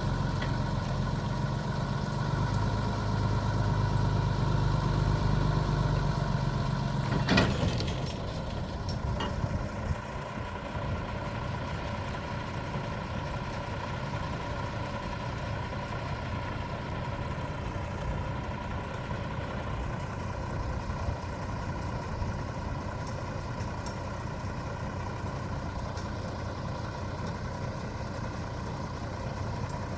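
Heavy engine idling with small changes in revs. It cuts out with a clunk about seven seconds in, leaving a steady mechanical hum.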